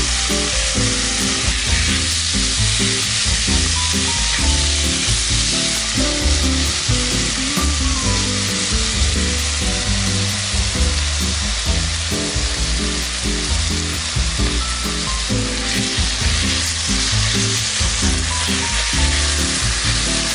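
Chicken strips and sliced onion sizzling steadily in hot oil in a frying pan as they are stir-fried, with background music underneath.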